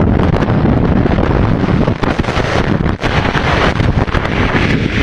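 Heavy wind buffeting the microphone of a motorcyclist's camera while riding, with vehicle and road noise underneath.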